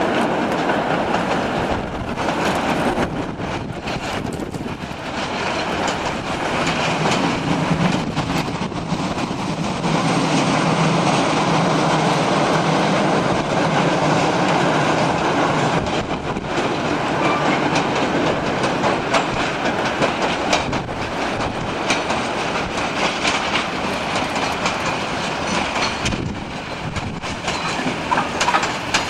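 Freight train of Class 33 diesel locomotives and Brett hopper wagons rolling past, the wagon wheels clattering over the rail joints.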